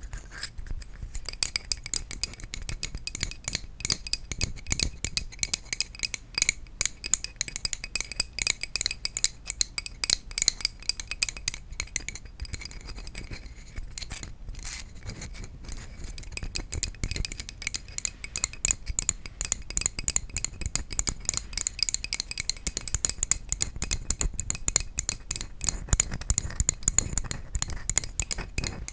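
Rapid, continuous tapping on wooden objects: many sharp clicks a second with a light ringing, pausing briefly twice midway.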